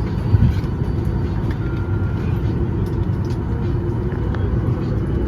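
Boeing 737 MAX 8 passenger cabin before departure: a steady low rumble of cabin air and aircraft systems, with scattered faint clicks.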